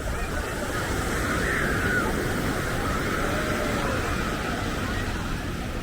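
Ocean surf washing steadily onto the beach, with faint voices of people around.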